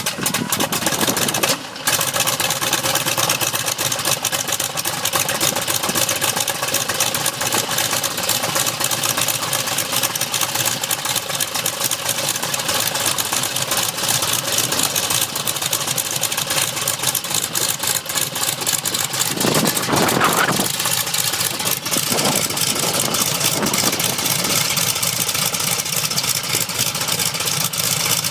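Engine of a restored Mosa machine starting for the first time after restoration, catching about two seconds in, then running steadily.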